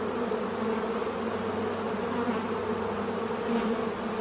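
Honeybee colony buzzing with a steady hum from an open hive as the frames are inspected.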